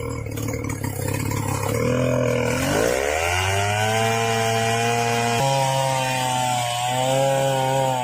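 Chainsaw engine throttled up about three seconds in and held at high speed under cutting load, its pitch stepping slightly midway and starting to fall away at the end.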